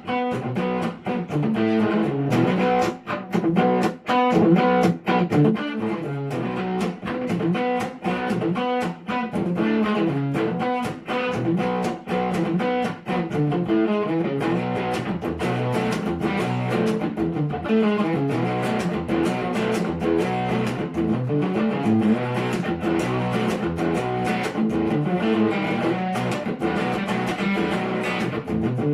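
Guitar improvised freely: a steady, unbroken stream of quickly picked notes and chords, with no set riff.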